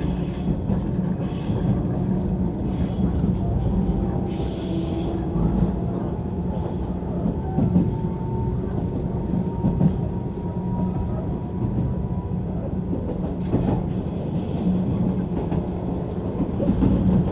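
Running noise of a JR 185 series electric train heard from inside the passenger car: a steady rumble of wheels and running gear on the rails. A faint thin high tone runs through the middle.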